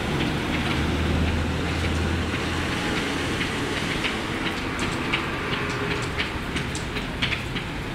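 Heavy rain pouring with a steady hiss, and single drops ticking sharply on a hard surface, more often in the second half. A low hum sits under it for the first couple of seconds.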